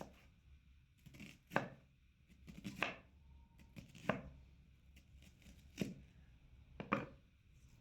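Knife chopping food on a cutting board: about five heavy strikes, unevenly spaced roughly a second apart, with a few lighter taps between.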